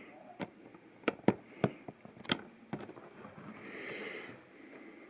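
Light clicks and taps of plastic LEGO pieces and minifigures being handled, about six in the first three seconds, then a soft breath.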